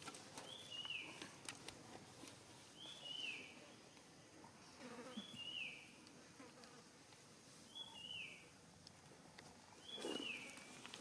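A small wild animal's high, short call, repeated five times about every two and a half seconds, each one sliding down in pitch, over faint rustling and clicks.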